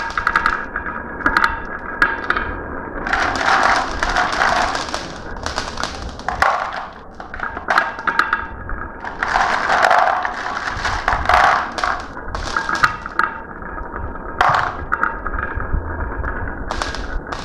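Marbles rolling and clattering along a marble run track, with a dense run of quick clicks and clacks. Louder rolling rattles come in waves, loudest about three seconds in and again around ten seconds.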